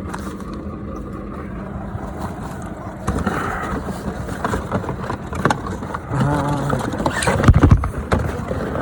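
Steady running noise of a car heard from inside the cabin. From about three seconds in come handling knocks and rustles close to the microphone, the loudest thumps near the end.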